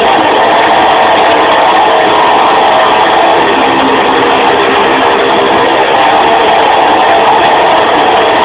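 Strong wind howling, loud and steady.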